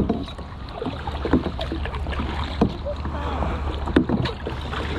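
Kayak paddle strokes, a short knock or splash about every second and a half, over a steady low rumble of wind on the microphone.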